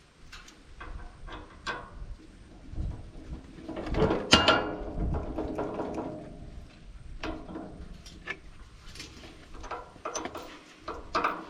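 Metal parts and tools being handled: scattered clicks and knocks, with one loud clank about four seconds in that rings on briefly.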